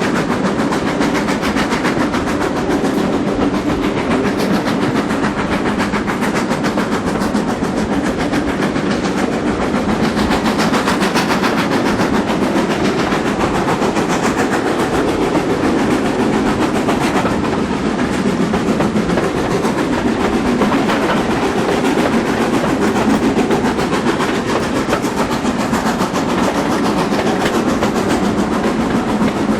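Train hauled by a GWR Manor Class steam locomotive running steadily, with the continuous rumble and clatter of the carriage wheels on the track.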